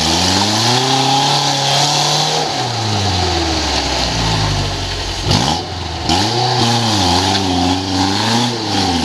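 Off-road buggy engine revving under throttle, its pitch climbing and falling: one long pull over the first couple of seconds, then a run of quick rises and dips in the second half.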